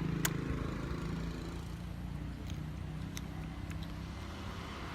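A low, steady hum of an engine running, with a sharp click just after the start and a few faint ticks later on.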